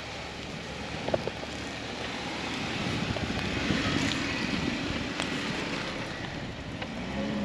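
Off-road vehicle running with a steady engine and road noise, with a short knock about a second in.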